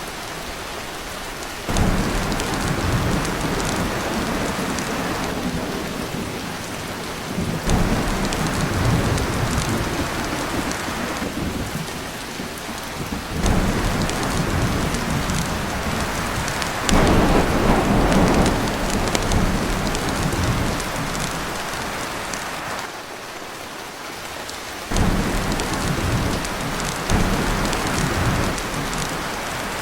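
Heavy rain pouring on a tin roof, with several rolls of thunder that break in suddenly and rumble away over a few seconds each.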